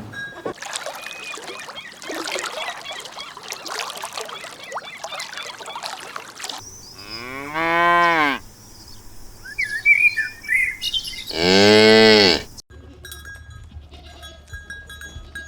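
Cow mooing twice, two long calls about four seconds apart that rise and fall in pitch, the second louder. A few seconds of noisy background come before them.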